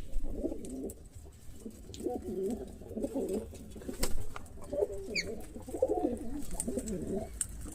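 Pigeons cooing repeatedly in low, wavering phrases, with one short high bird chirp about five seconds in.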